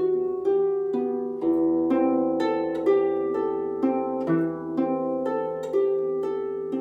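Harp playing a melody of plucked notes, about two a second, each note ringing on over held lower notes.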